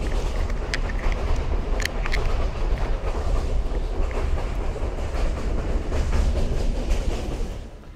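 A running passenger train heard from inside the carriage: a steady low rumble, the wheels clacking over the rails, and a few sharp metallic clicks. The noise drops away suddenly near the end.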